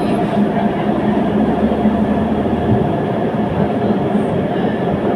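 Tram running along its rails: a steady rumble of wheels on track with a constant motor hum.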